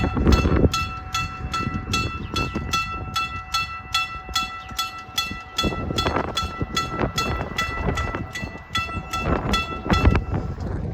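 Railroad crossing bell ringing in fast, even strokes, about two and a half a second, over the low rumble of the Wheeling and Lake Erie 7019 locomotive and its train at the crossing. The bell stops shortly before the end.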